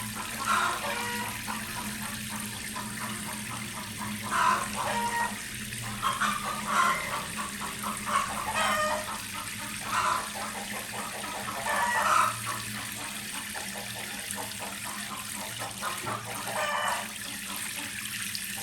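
Tap water running steadily into a sink or basin, with about ten short, higher-pitched sounds scattered over it.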